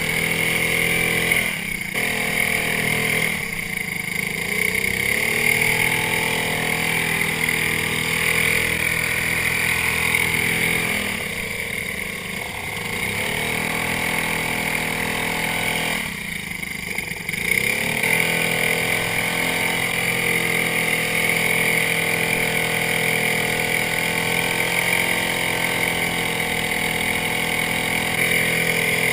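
Small engines of bumper boats running steadily, their pitch dropping and coming back up four times as the throttle is eased off and opened again.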